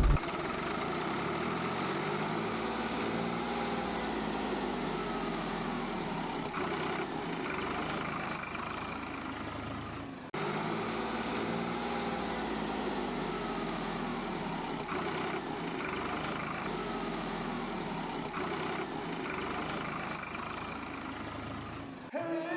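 Engine idling with slow rises and falls in pitch. The same stretch of sound repeats after a short break about ten seconds in, like a looped engine recording.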